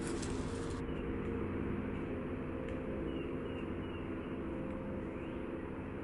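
Woodland ambience: a steady low hum throughout, with three short bird chirps about three seconds in and a faint rising call about five seconds in.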